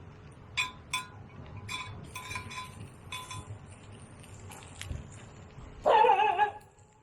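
Five or six light clinks, like utensils against a pot or dish, in the first few seconds, then a short, loud pitched cry about six seconds in.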